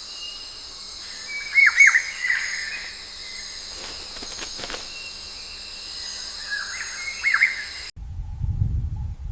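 A bird gives short, sharp swooping calls twice, over a steady high insect drone. About a second before the end the sound cuts abruptly to low rustling, crunching noise.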